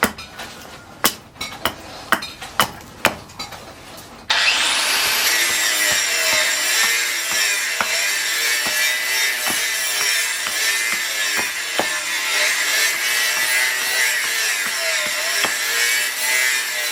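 A few sharp taps, then about four seconds in a power grinder spins up and runs steadily, grinding or sanding the blade or handle.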